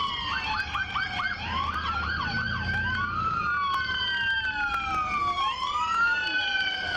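Several police car sirens sounding at once, their slow rising and falling wails overlapping, with a quick run of fast yelps about a second in.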